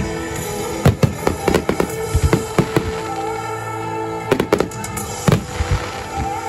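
Aerial firework shells bursting, a rapid irregular series of sharp bangs and crackles over music.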